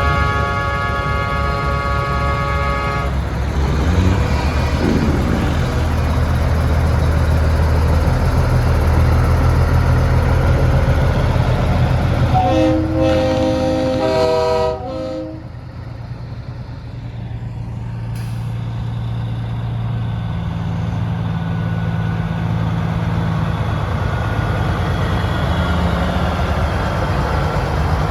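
Semi-truck air horns sounding several notes at once: one blast for about three seconds at the start and a second, shorter one about halfway through, over the steady low rumble of diesel truck engines.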